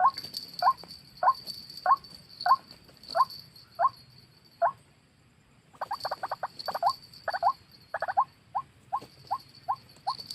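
White-breasted waterhen calling: a long series of short rising 'kru-ak' notes, about one and a half a second, breaking off briefly then resuming faster and denser, some notes doubled.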